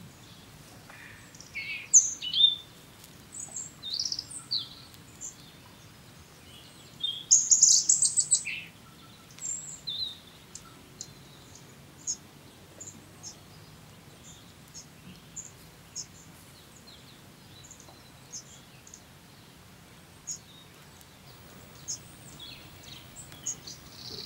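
Small birds chirping and calling: short high notes and a few falling calls scattered throughout. A louder run of rapid clicking chatter comes about seven seconds in.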